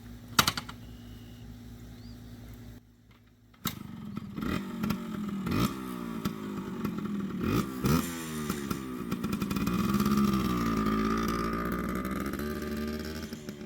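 Yamaha RT100's small two-stroke single-cylinder engine idling steadily, with a sharp click near the start; after a short break, it revs up and down repeatedly as the bike is ridden, running after a carburettor tune-up.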